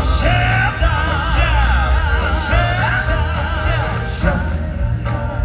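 Upbeat gospel quartet music with a full backing band: a strong bass and drum beat under voices holding wavering, ornamented notes without clear words.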